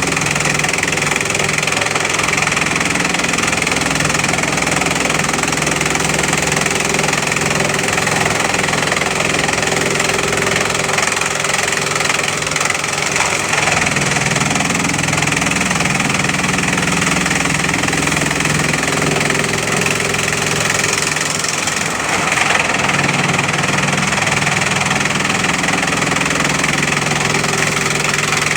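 Bamboo chipping machine and conveyor running steadily: a continuous, loud mechanical din. A low hum under it shifts in pitch a couple of times.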